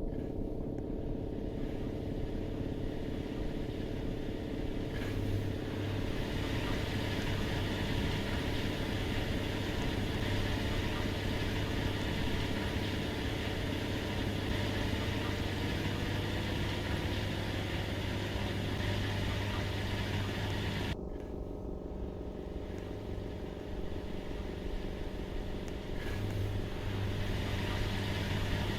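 Washing machine running with a steady motor hum; about halfway through its pitch rises as the drum speeds up.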